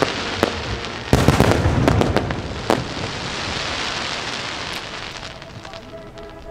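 Fireworks bursting overhead in quick succession, with a loud burst about a second in followed by a dense crackling that slowly fades toward the end.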